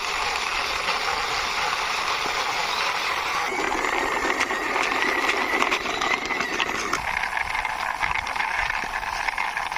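Toy police jeep pushed by hand, its small plastic wheels rolling and rattling steadily over a hard surface. It turns rougher and clicks rapidly for a few seconds in the middle.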